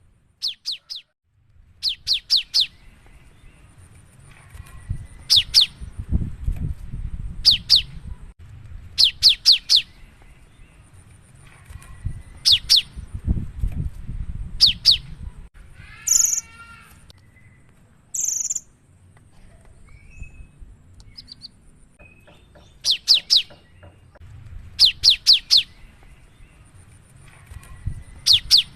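Cinereous tit (gelatik batu) singing actively: short bursts of two to five sharp, quick high notes, repeated about every two seconds. A different, harsher call breaks in near the middle, and a low rumble runs underneath.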